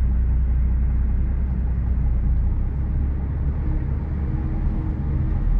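HGV lorry's diesel engine running with a steady low rumble.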